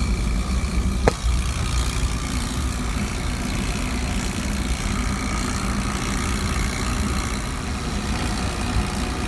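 A steady low mechanical hum of a running motor, with a single sharp click about a second in.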